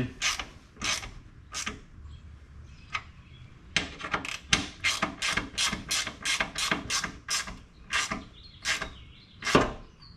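Hand ratchet clicking as a door-armor bolt is tightened into a rivet nut. There are a few spaced clicks at first, then from about four seconds in a steady run of about three clicks a second.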